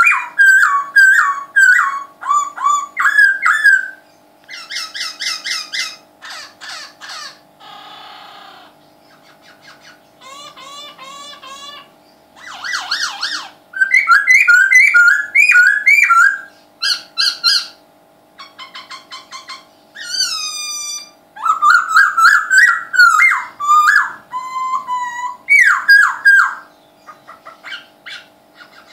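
A songbird singing loudly: a varied song of rapid whistled phrases, trills and sweeping notes, delivered in bursts with short pauses between them. A faint steady hum runs underneath.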